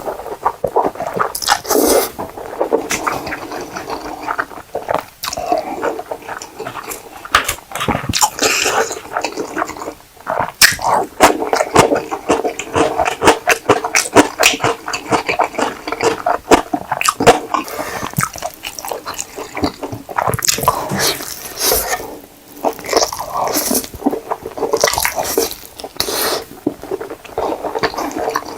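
Close-miked eating of ramen noodles: wet chewing with many quick clicks and smacks, continuing throughout.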